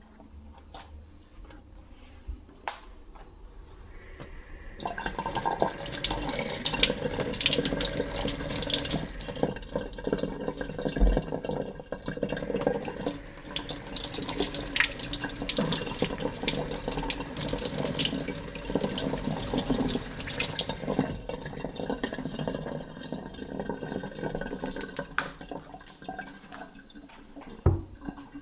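A few faint clicks, then a kitchen tap running water into a sink from about five seconds in. The stream is loudest in two long spells, and the water sounds are quieter over the last several seconds.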